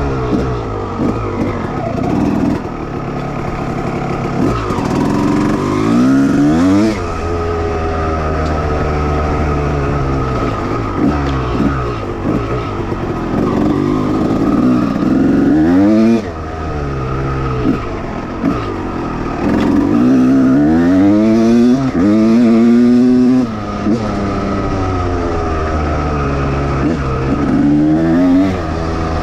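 1989 Honda CR250R two-stroke single-cylinder engine being ridden hard, revving up and falling back over and over, with the throttle chopped off sharply a few times.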